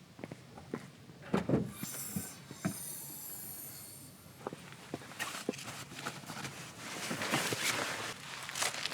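Irregular light knocks and clicks, with a brief burst of high rustling hiss about two seconds in.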